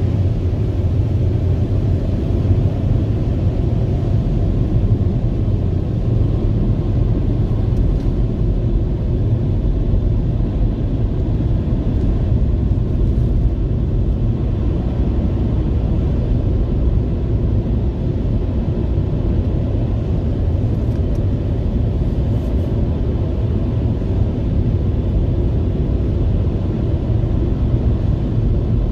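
Automatic car wash machine running: a steady low rumble with no breaks.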